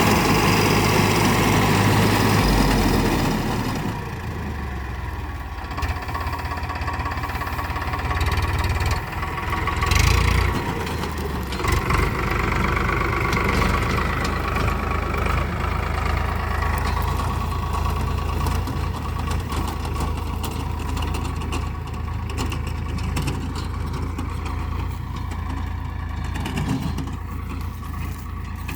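Tractor engine running steadily, louder for the first few seconds and then settling lower, with a brief rise about ten seconds in.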